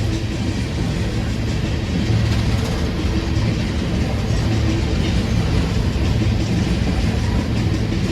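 Train passing with a steady rumble and a constant low hum.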